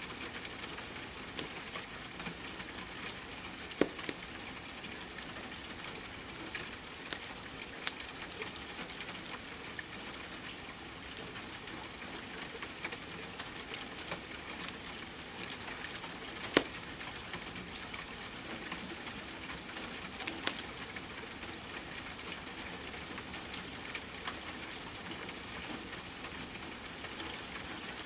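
Steady rain hiss mixed with the crackle of a fireplace fire: many small sharp clicks and a few louder pops, the loudest about 4, 8 and 16 seconds in.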